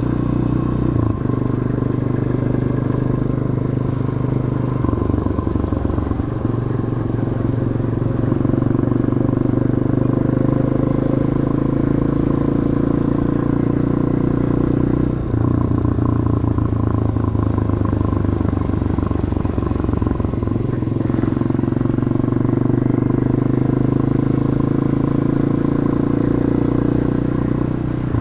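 Demak DTM 150 motorcycle running through its stock exhaust while riding, heard from a helmet-mounted camera. The engine note holds steady for stretches and steps abruptly up or down several times.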